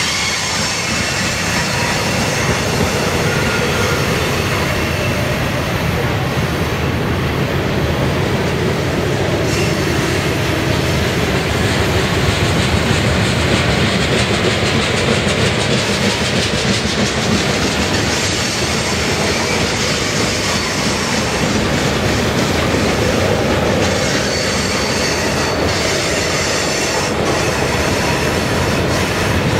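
Freight cars of a long train rolling past close by, a steady rumble of steel wheels on the rails with rhythmic clicking, and thin wheel squeal on the curve now and then.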